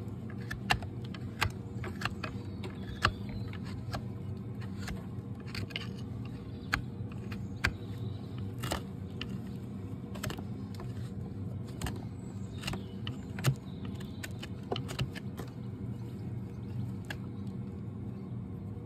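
Farrier's tools working on a Shire horse's hoof: irregular sharp clicks and snaps over a steady low hum.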